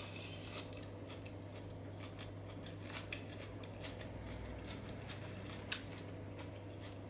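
Quiet crisp crunching of salad being chewed: faint, irregular crackles and clicks, with one sharper click near the end as the fork touches the salad dish.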